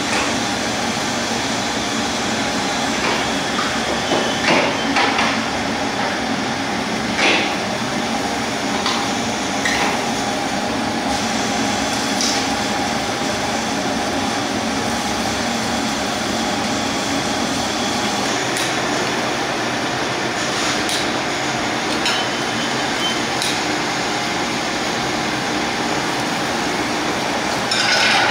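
Steady machine hum with a few faint steady tones, broken by occasional short metal clinks and knocks, a few seconds apart and a cluster near the end.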